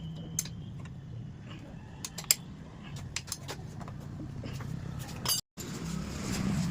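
Scattered sharp metallic clinks and clicks, like tools or small metal parts being handled, over a steady low hum. The sound cuts out briefly near the end.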